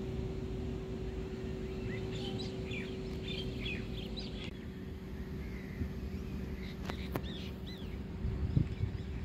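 Small birds chirping in short calls, a run of them in the second to fifth seconds and a few more around seven seconds in, over a steady low outdoor rumble. A thump near the end is the loudest moment.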